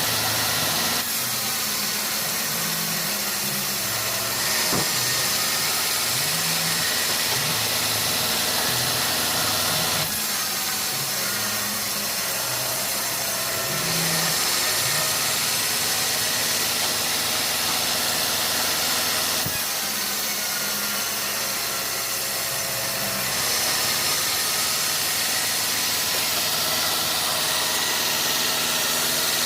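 Sawmill saw and its engine running: a steady, loud hiss over a low hum, shifting abruptly in tone several times.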